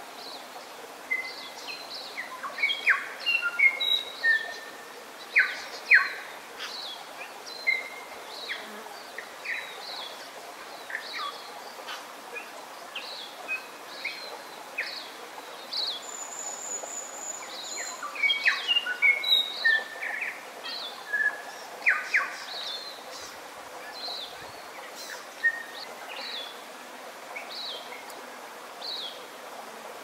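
Forest birdsong: several birds giving short chirps and whistles, with a brief high trill about sixteen seconds in, over a steady background hiss.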